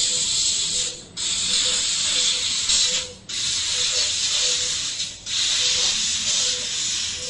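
A fiber laser tube cutting machine runs with a loud, steady hiss of gas jetting from the cutting head. The hiss breaks off briefly about every two seconds and comes straight back, as the gas stops and restarts between cuts. A faint pulsing tone runs underneath.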